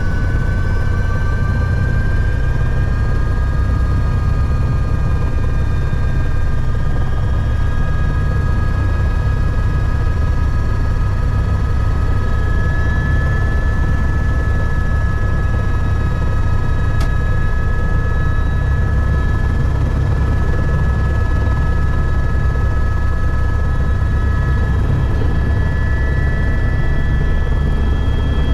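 Helicopter turbine engine and rotor running loud and steady: a deep, even rotor drone under a high turbine whine that climbs slightly in the first few seconds, then holds.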